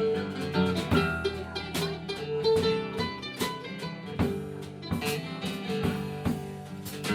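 Live country band playing an instrumental break between sung verses: guitars over a steady beat, with no singing.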